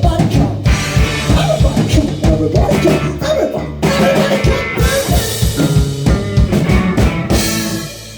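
Live rock band playing a full-band groove: kick drum and snare hits with rimshots over bass and pitched instruments. The music drops away just before the end.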